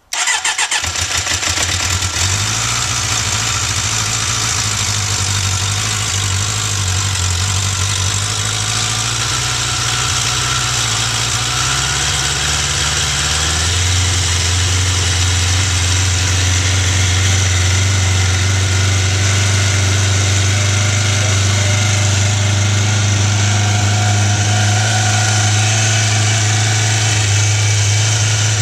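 1996 Suzuki Katana 600's inline-four engine firing up and running at a fast, choked cold idle; about 13 seconds in the revs drop a step and the engine then runs steadily at the lower speed.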